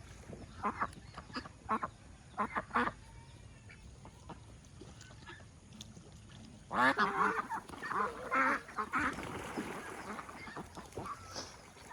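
Domestic ducks quacking: a few short quacks in the first three seconds, then a louder run of calls from about seven to nine seconds in, trailing off into scattered quacks.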